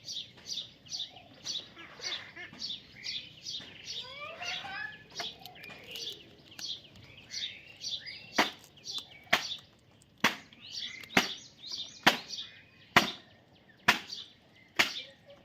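Baby parrot chirping over and over in short high calls. In the second half, loud sharp clicks come about once a second.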